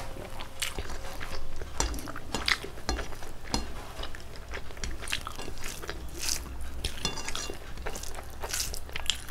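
A person chewing a mouthful of rice and curry close to the microphone: irregular wet mouth clicks and lip smacks, several a second.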